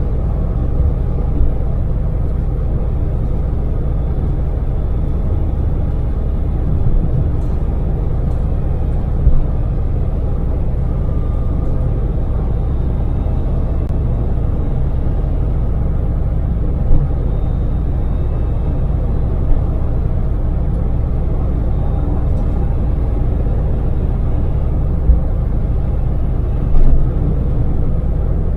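Daewoo Damas mini van's small three-cylinder LPG engine running steadily with road noise while driving on an expressway, a continuous low rumble. A few brief thumps stand out over it.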